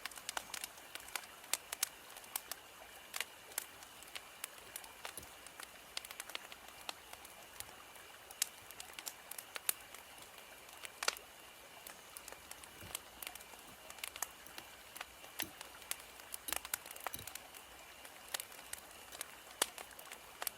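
Wood fire crackling: irregular sharp snaps and pops, several a second, over a steady soft hiss.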